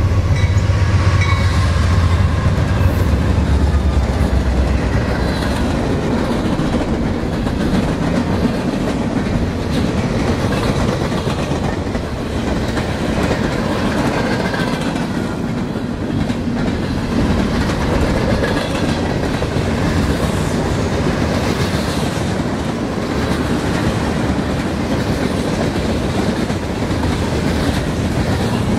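Train passing close by: a deep locomotive engine rumble for the first few seconds, then the steady clickety-clack of railcar wheels over the rail joints.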